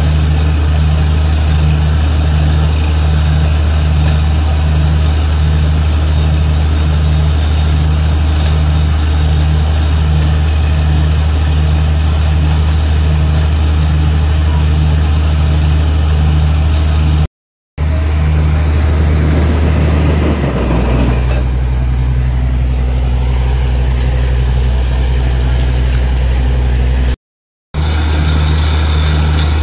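Borewell drilling rig's engine running loud and steady with a low hum and a regular pulsing throb. It breaks off twice for a moment, and about twenty seconds in the engine note changes to a steadier, lower hum.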